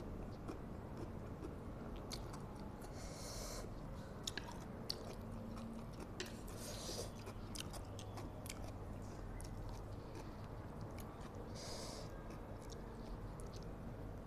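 Close-miked chewing and wet mouth sounds of someone eating spicy instant fried noodles, with small sharp clicks scattered throughout. Three short airy hisses come about 3, 6.5 and 12 seconds in.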